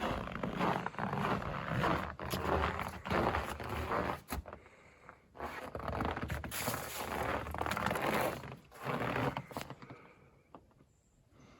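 Footsteps crunching through cold, dry snow, in uneven runs with a short pause about four seconds in, then stopping about ten seconds in.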